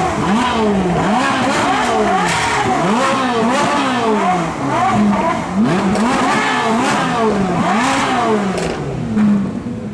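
A performance car's engine revved over and over in quick throttle blips, the exhaust note rising sharply and dropping again about a dozen times.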